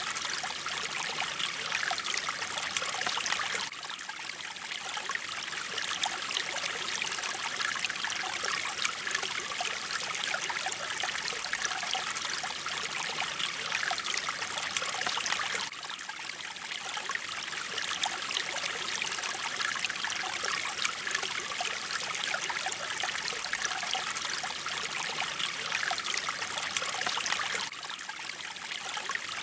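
Mountain stream water flowing and splashing steadily over rocks, with a brief drop in level about every twelve seconds.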